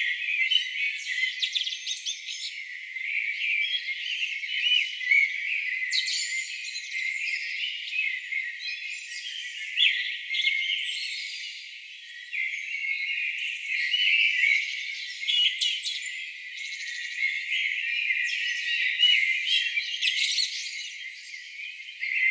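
A chorus of songbirds singing and calling over one another, a dense run of chirps, trills and short whistles. It has no low end at all, only the high part of the sound.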